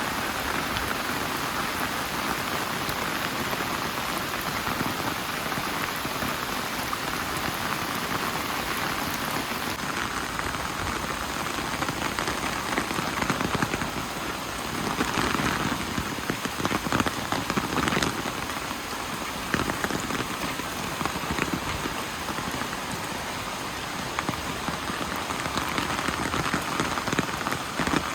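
Steady heavy rain falling and pattering on surfaces, with scattered sharp drips; the drops come denser for a few seconds in the middle.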